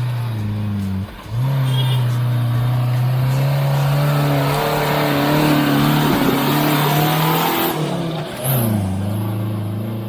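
Off-road 4x4 engine revving hard under load. Its pitch drops briefly about a second in, holds high and steady, then dips and climbs again near the end.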